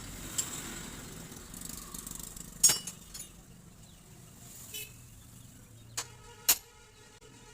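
Metal tools and shock-absorber parts clinking sharply against each other several times, each clink ringing briefly, during reassembly of a motorcycle's rear mono-shock rod. The loudest clink comes about two and a half seconds in, and two more come close together near the end. Beneath them runs a steady low background rumble.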